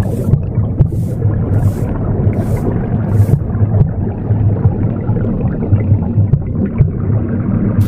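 Womb sound: a continuous low whooshing rumble with an uneven pulse. Over it, a run of soft broom sweeping strokes, about one every three-quarters of a second, that stop after about three seconds.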